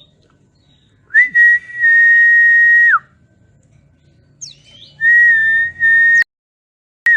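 Long, steady, single-pitch whistled notes, played as a lure to set white-eyes singing. The first note is held about two seconds and drops in pitch as it ends. A second, shorter one breaks off abruptly, and a brief falling note comes near the end.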